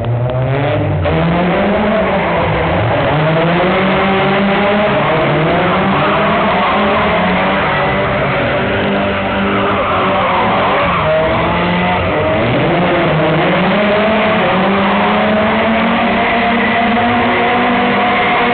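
A car's engine revving hard, its pitch rising and falling over and over as it is driven in a drift, with tyre squeal under it.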